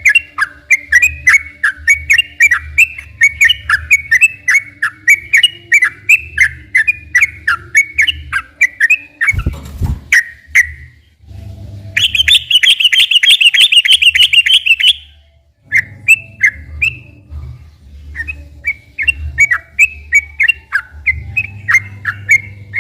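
Yellow-vented bulbul (trucukan) singing long, fast runs of short chirping notes, several a second, broken by a harsher rapid chatter from about twelve to fifteen seconds in. A low hum runs underneath, and there is a short thump near the middle.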